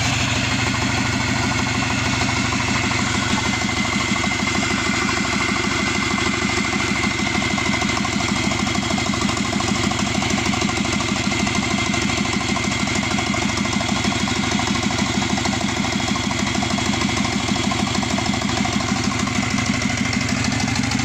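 Subaru EJ255 2.5-litre turbocharged flat-four engine idling steadily, with an even low pulsing and a faint steady high whine over it.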